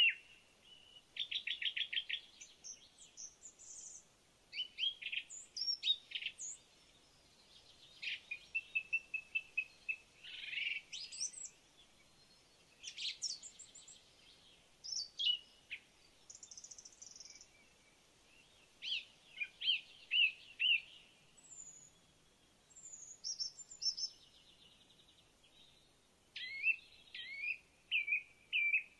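Songbirds singing: a steady succession of varied phrases, made of quick chirps, rapid trills of repeated notes and high whistled glides, one phrase after another with short pauses between.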